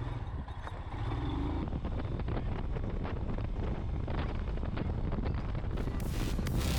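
Royal Enfield Himalayan single-cylinder motorcycle running on the move, a steady low engine rumble mixed with wind and road noise. Background music comes in near the end.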